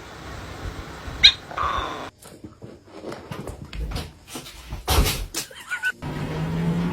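A dog gives a short, high whine or yelp about a second in, followed by scattered knocks and a single loud thump about five seconds in.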